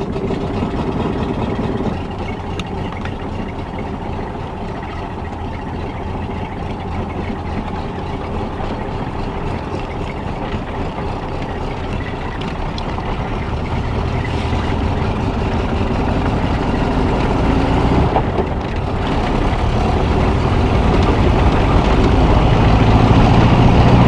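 Classic VW Beetle's air-cooled flat-four engine running as the car pulls away, heard from inside the cabin. It gets louder over the second half, with a brief dip about 18 seconds in.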